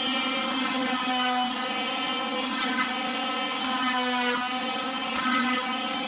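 Power tool motor running steadily with a constant whine, its pitch shifting briefly twice, as when the tool is loaded against the wood.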